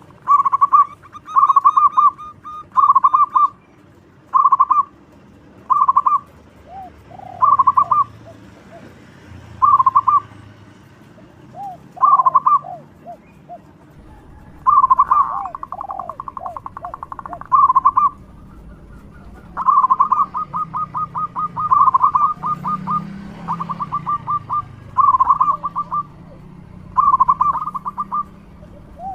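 Zebra dove (perkutut) song: short bursts of rapid staccato cooing notes repeated every second or two, running into longer trilled phrases from about halfway through, with softer, lower notes between the bursts.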